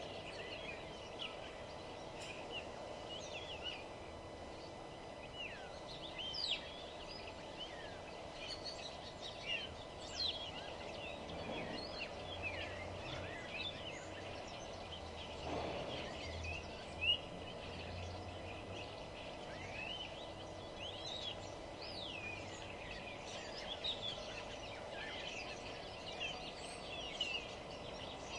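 A chorus of many small birds chirping and singing at once, a dense overlap of short quick calls, over a steady background murmur, with a low rumble about halfway through.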